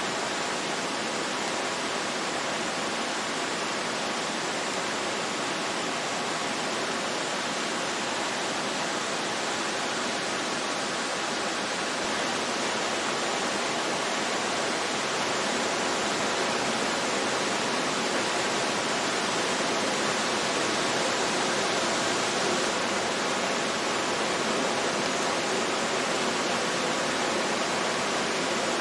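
Steady, even rushing noise with no breaks or gusts, of a kind like falling or running water.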